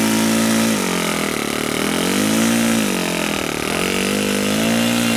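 ASP .61 glow engine of an RC Cessna 182 model plane running, its pitch dropping twice and climbing back as the throttle is eased off and opened again.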